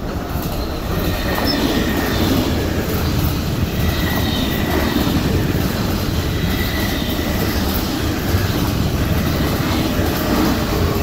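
An MTR East Rail Line electric multiple unit passing close by: a loud, steady rumble of wheels on rail that swells over the first second and then holds, with a faint high squeal from the wheels now and then.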